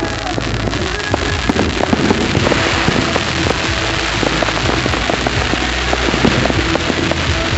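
Firework display: a dense run of crackling and popping bursts, with music playing underneath.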